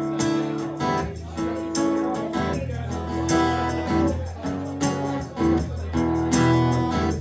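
Live band playing an instrumental break of a country song, led by strummed acoustic guitar.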